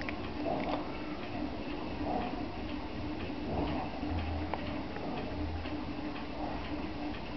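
Steady, regular ticking, evenly repeated.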